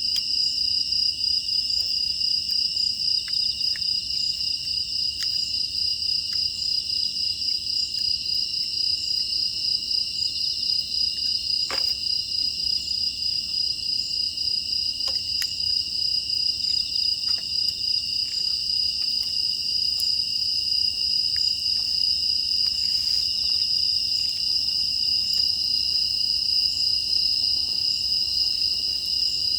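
A dense chorus of grass insects chirping steadily in a fast, even trill. Scattered faint clicks and crackles from a wood fire, one sharper snap about halfway through.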